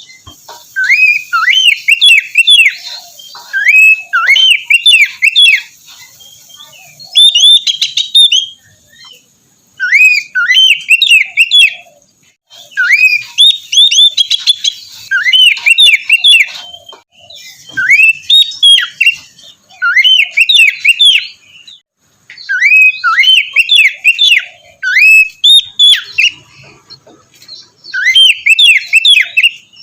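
Oriental magpie-robin (kacer) singing loudly: phrase after phrase of rising, looping whistled notes, each burst lasting a second or two with short pauses between.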